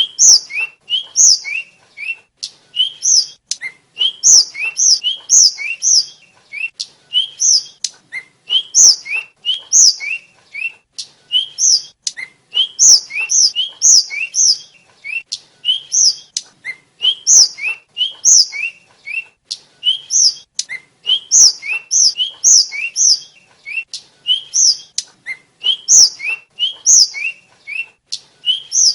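A tledekan (sulingan), a small Indonesian blue flycatcher, singing continuously: quick strings of short, bright chirps and sliding whistled notes, several a second, with brief gaps between phrases.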